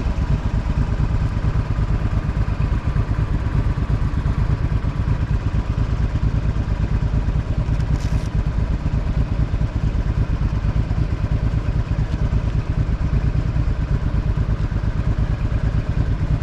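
Honda NT650V Deauville's V-twin engine running steadily through an aftermarket Dominator exhaust, with an even, low pulsing note.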